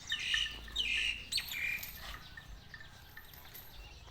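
A bird chirping: four short, falling chirps in the first two seconds, then quieter.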